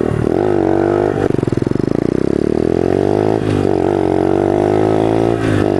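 A pit bike's small engine revving hard under the rider. The pitch climbs about a second in, pulses rapidly for a second or so, climbs again after about three and a half seconds and falls away near the end, as it would when pulling up wheelies.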